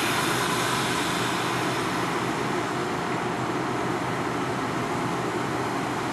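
NJ Transit Arrow III electric multiple-unit commuter train rolling slowly past: a steady rumble of steel wheels on rail mixed with the hum of the cars' motors and blowers.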